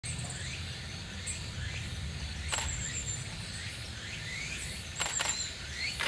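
Japanese white-eyes bathing in a shallow pool: short splashes of water about two and a half seconds and five seconds in, with thin high calls and short rising chirps throughout, over a steady low rumble.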